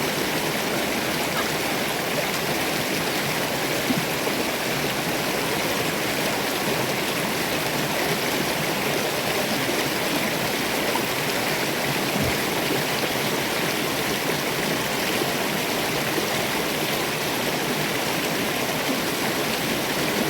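River water rushing and splashing over rocks, steady and unbroken.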